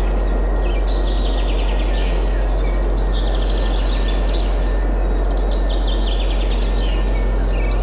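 Steady wind noise with a strong low rumble, under small songbirds repeatedly singing quick trills that fall in pitch, a new phrase every second or two.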